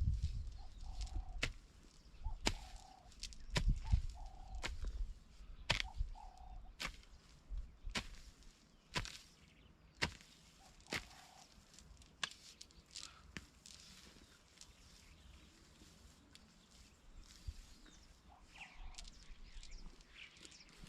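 A jembe hand hoe chopping into wet soil while weeding: sharp strikes about once a second, with heavier thuds in the first few seconds.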